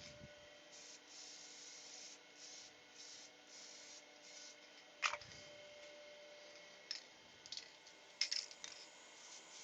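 Faint, intermittent rubbing or scraping of hand work on a small wooden workpiece, with a sharp click about five seconds in and a few lighter knocks near the end, over a low steady hum.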